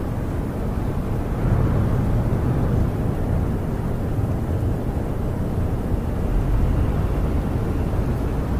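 Snowstorm wind gusting against a camper, heard from inside as a steady deep rush that swells twice.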